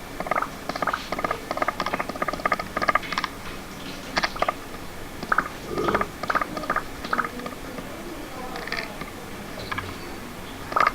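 Runs of quick, sharp clicks and taps, some with a brief pitched ring, coming in irregular clusters with short gaps.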